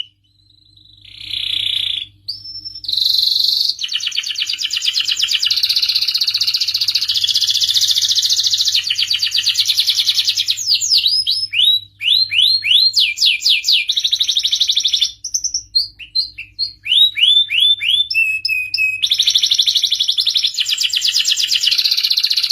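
Domestic canary singing a long, varied song: rapid buzzing trills alternate with series of quick downward-sweeping notes, with a few short breaks.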